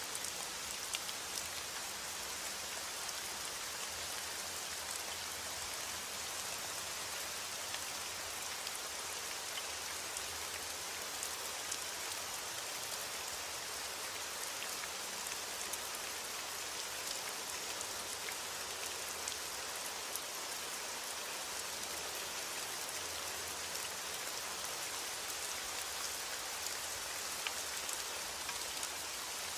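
Heavy rain on a window pane, a steady hiss strongest in the high range, with scattered faint sharp crackles.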